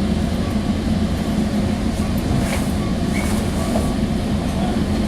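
Steady low rumble and hum of a Sounder commuter train, heard from inside a passenger car.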